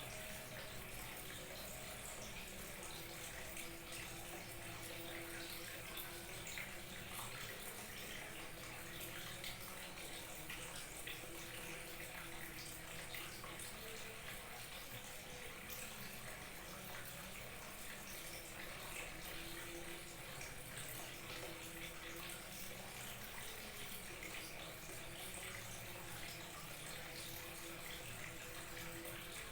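Small waterfall trickling steadily, a continuous even splashing of falling water.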